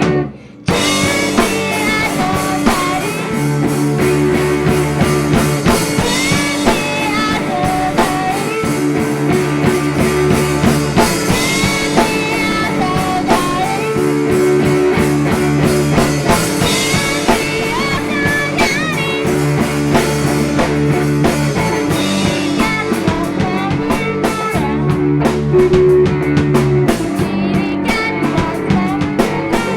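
All-girl indie-pop three-piece playing live: guitar and drum kit with a woman singing. A brief dropout comes within the first second.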